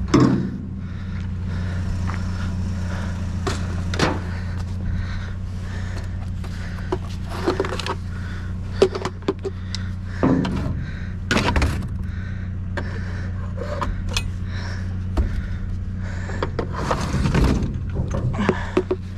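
A vehicle engine idling steadily with a low hum, while scattered knocks and clunks of hard objects being handled and set down come through, a few sharper ones around the middle.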